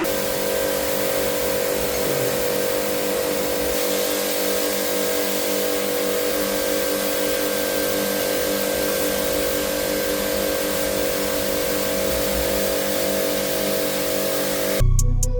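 A tool running steadily: a constant hum with a broad hiss that cuts off suddenly near the end.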